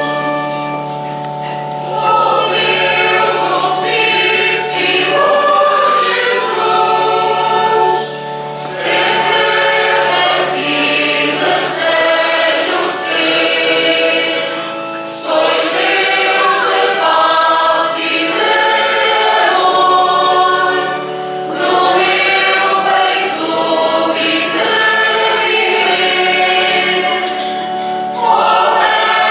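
Church choir singing a Communion hymn in phrases with short breaks between them, over a steady low held note for the first half.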